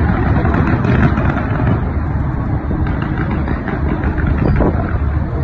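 A fireworks display heard from afar: many bursts merging into a continuous low rumble, with faint scattered crackles.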